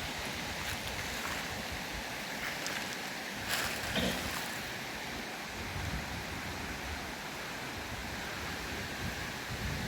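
River water rushing steadily, with a short sharp knock about three and a half seconds in.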